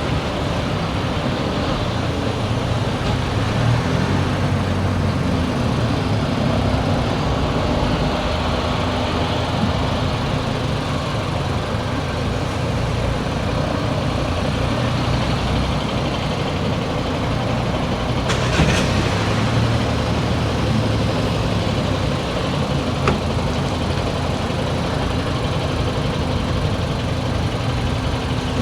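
A car driving: steady engine hum and road noise that rise and fall slightly with speed, with one sharp knock about two-thirds of the way through.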